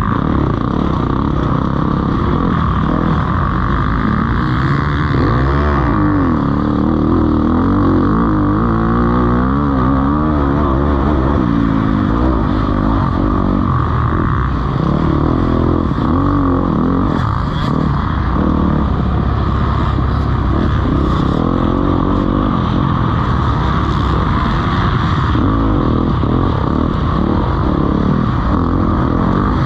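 Motocross bikes racing, their engines revving up and down without a break as the riders accelerate, shift and back off, several engines overlapping.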